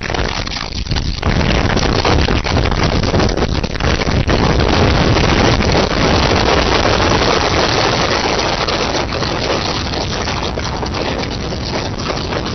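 Strong wind rushing and buffeting over an outdoor nest-camera microphone, loud and continuous with gusts that swell and ease, heaviest in the low rumble.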